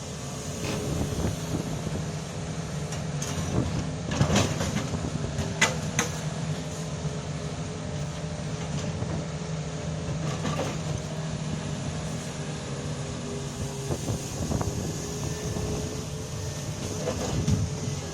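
Machinery running steadily with a constant hum, broken by a few sharp knocks, the loudest about four to six seconds in.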